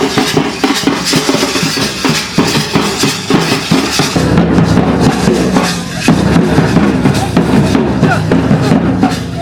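Dhamsa and madal drums playing a fast, steady rhythm for a tribal dance.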